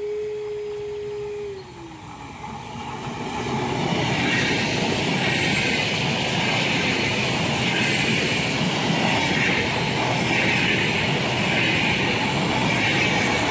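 Trenitalia Vivalto double-deck regional train passing close by at speed: the rolling rumble and wheel noise build up over the first few seconds, then run loud and steady as the coaches go by. Before the train reaches the spot, a steady whistling tone slides down in pitch and dies away.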